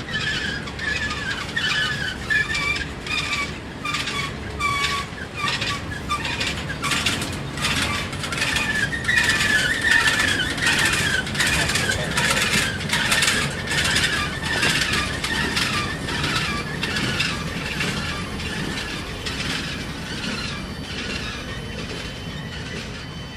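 Freight train rolling past: steel wheels clicking over rail joints, with wheel flange squeal wavering on and off, loudest around the middle.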